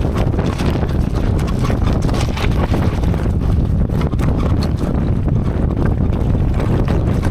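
Strong wind buffeting the microphone with a steady roar, over the scattered clatter and rattle of a bicycle jolting down a rough, steep track.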